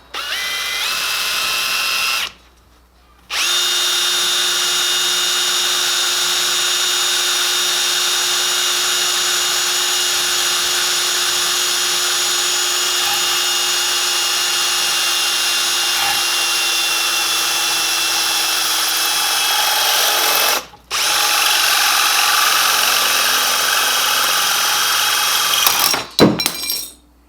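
Handheld electric power tool running in three long stretches, spinning up with a rising whine at each start and holding a steady high whine, with two short stops between. It is being used to fabricate a metal exhaust bracket.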